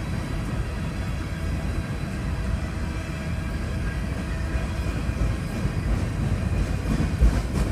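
Slow-moving BNSF empty coal train rolling past, a steady low rumble of wheels on rail with a few heavier thumps near the end.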